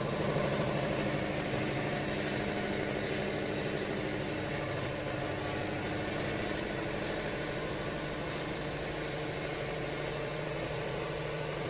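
Wood-Mizer LT70 sawmill engine idling steadily, with no cut under way.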